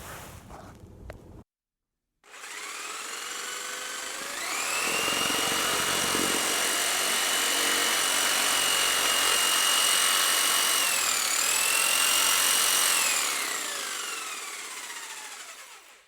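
Electric motor whine with a hiss, starting after a moment of silence. It speeds up to a steady high pitch, dips briefly once, then winds down with a falling pitch over the last few seconds.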